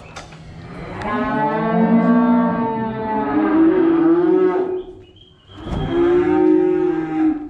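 Feeder cattle mooing: two long, drawn-out moos, the first lasting about four seconds and the second starting about five and a half seconds in.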